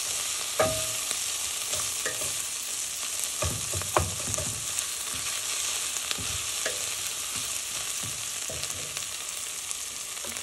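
Chopped bacon, onion, jalapeño and minced garlic sizzling in a stainless steel pot, the garlic browning. A wooden spoon stirs them, knocking and scraping against the pan now and then.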